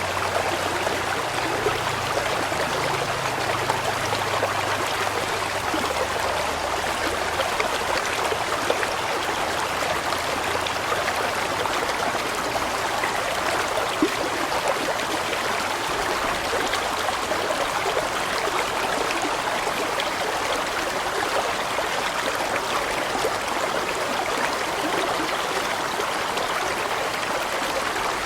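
Water of a large stream flowing steadily, an even rushing with no break.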